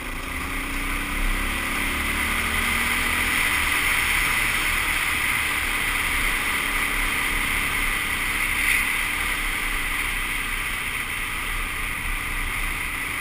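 Suzuki DR-Z400S single-cylinder four-stroke engine running while riding a dirt road, its pitch rising over the first few seconds as the bike picks up speed, then holding steady. Heavy, steady wind and road noise on the helmet-mounted microphone.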